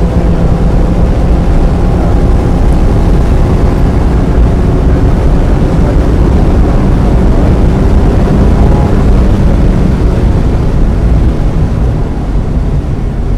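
1995 Mazda Miata's 1.8-litre four-cylinder engine running hard under load, with road noise, getting somewhat quieter about a second before the end.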